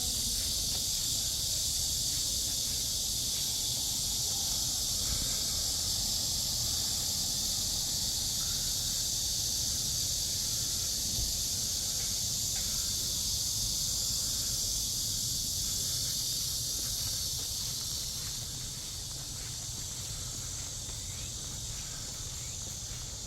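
A summer insect chorus: a steady, high, shrill buzzing that goes on without a break and eases slightly near the end.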